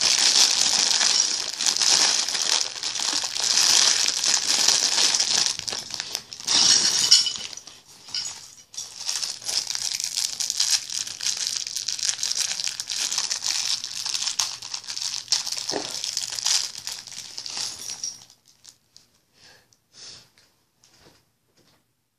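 Plastic packaging of a building set crinkling and rustling as it is handled. It stops about 18 seconds in, leaving a few light clicks.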